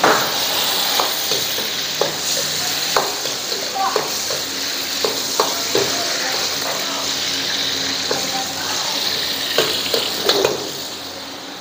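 Small chicken pieces sizzling as they fry in hot oil, with a spatula clicking and scraping against the pan every second or so. The sizzle eases a little near the end.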